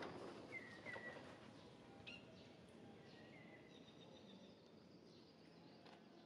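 Quiet forest ambience with a few faint, short, high bird chirps, two close together near the start and a few more scattered after.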